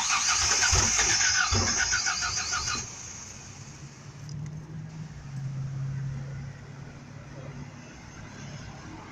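Truck's starter motor cranking the engine in a fast, even rhythm for about three seconds, then stopping abruptly: a start attempt on a truck that won't start. A fainter low hum follows a little later.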